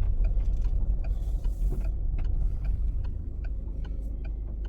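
Ferry under way: a steady low mechanical rumble with faint, regular ticking at about two to three ticks a second.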